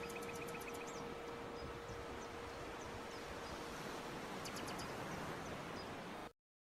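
Outdoor ambience with birds chirping: two short bursts of very rapid, high trills, one at the start and one about four and a half seconds in, and scattered short high chirps, over a steady hiss and a steady low hum. The sound cuts off abruptly shortly before the end.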